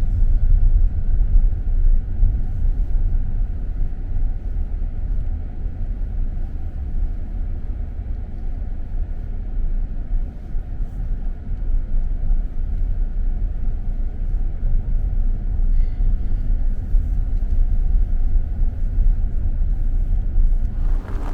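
Steady low rumble of a vehicle on the move, road and engine noise.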